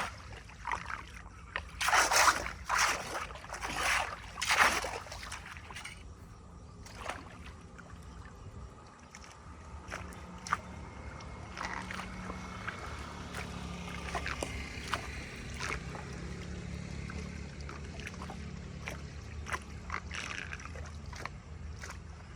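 Water splashing and sloshing in several loud bursts over the first five seconds, then water running and gurgling steadily with scattered small clicks.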